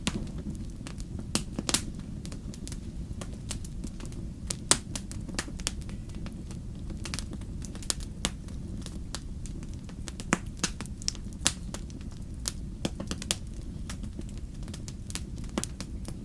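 Wood fire burning in a fireplace: a steady low rumble of flames with irregular sharp crackles and pops, a few louder snaps standing out.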